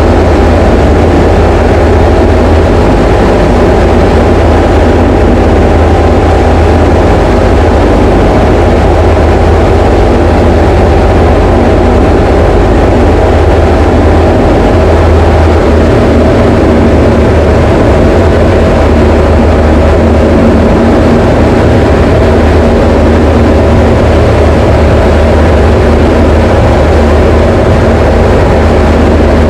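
Diamond DA20 light aircraft's piston engine and propeller running in a loud, steady drone.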